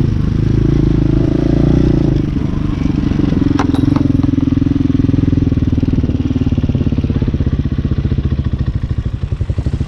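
Hawk 250 dirt bike's single-cylinder engine running under the rider. About halfway through it drops toward idle, and its separate firing pulses become distinct. There is a single sharp click about three and a half seconds in.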